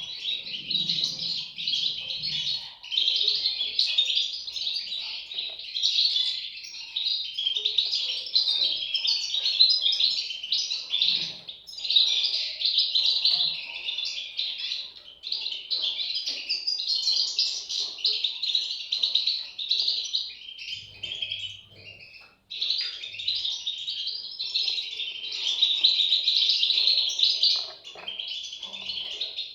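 European goldfinch chicks calling in a dense, continuous chorus of high chirps, with a brief pause about two-thirds of the way through.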